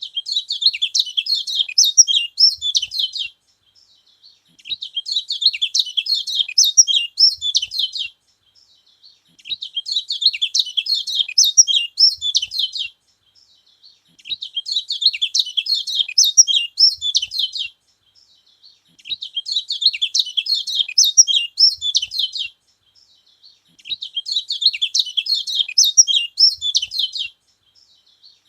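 Kecial kuning (yellow white-eye) singing: rapid, high twittering phrases of about three and a half seconds, each followed by a pause of about a second, repeating evenly six times over. It is a song that is said to rouse other kecial birds.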